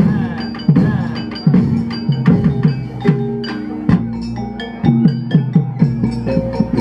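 Banyumasan gamelan playing an ebeg accompaniment: repeated kendang drum strokes that fall in pitch, over struck keyed instruments ringing on held notes.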